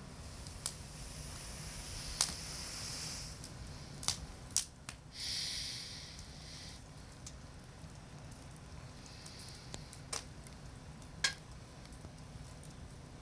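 Wood campfire crackling, with sharp pops scattered through and two stretches of hissing, the louder one lasting about a second and a half near the middle.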